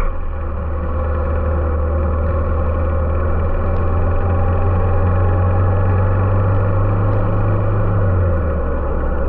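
A Honda H'ness CB350's single-cylinder engine runs steadily on the move. Its note eases down a little after 8 seconds in.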